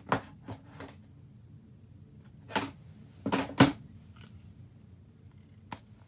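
Makeup palettes and cases being handled and set down: a few sharp clicks and knocks, with a cluster in the middle, the loudest just past halfway.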